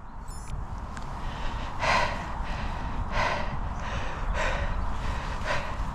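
A person breathing heavily after running a race: loud, hoarse breaths about once a second, the sign of being out of breath after a sprint finish.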